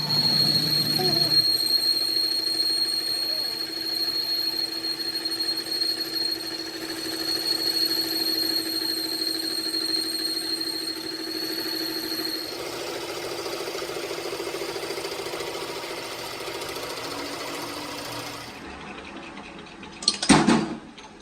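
A workshop machine or power tool running steadily with a high whine. Its sound changes about two-thirds of the way through and then dies away, followed by a short, loud clatter near the end.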